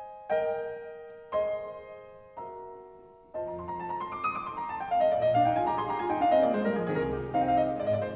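Solo piano in a classical piano concerto. Three chords are struck about a second apart, each left to die away, then a little past the middle fast running scales and arpeggios sweep down and back up, louder.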